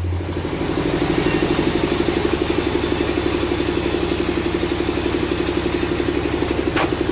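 Engine running steadily at idle with a rapid, even beat. A brief higher squeak comes near the end.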